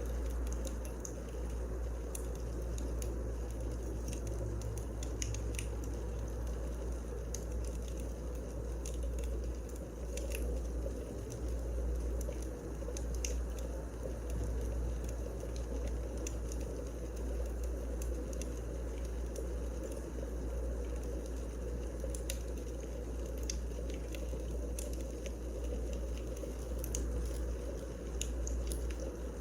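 Firewood burning in a fireplace: a steady low rumble with scattered, irregular crackles and pops.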